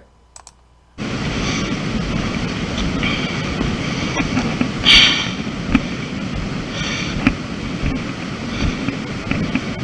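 Wind rushing over a camera microphone on a hiking trail, a steady rough noise that starts about a second in, with a few short sharper sounds, the strongest about halfway through.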